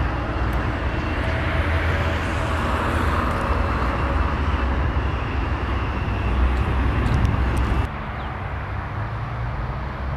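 Electric commuter train running over station trackwork: a steady rumble with a faint motor hum and a few light clicks. About eight seconds in the sound drops suddenly to a quieter, duller rumble.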